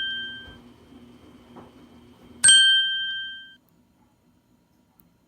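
A bright bell-like ding fading out, then struck again about two and a half seconds in and ringing for about a second before dying away.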